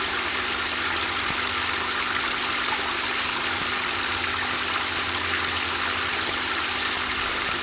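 Water running and splashing steadily from an Easy Fountain 'Luminous Rain' garden water feature, with a steady low hum underneath.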